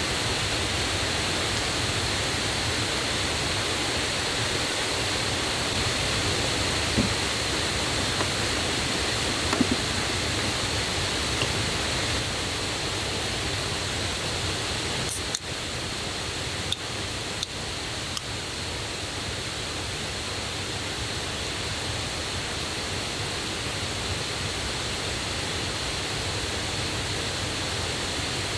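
Mountain stream and waterfall rushing steadily, swollen with water from the previous day's rain, with a few light clicks or knocks around the middle; the rush drops slightly in level about halfway through.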